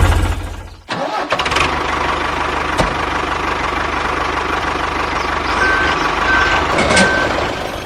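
A small engine running with a low pulsing beat dies away within the first second, then starts again and runs steadily. Three short high beeps sound near the end.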